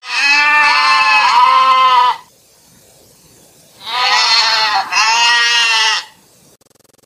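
Goat bleating: one long wavering bleat, then two shorter bleats back to back about four seconds in.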